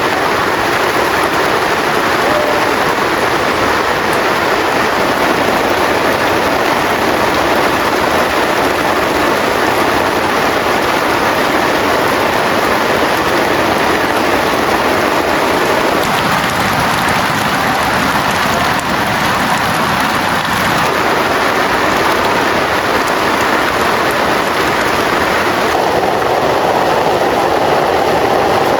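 Heavy rain falling hard and steadily, a loud, even hiss.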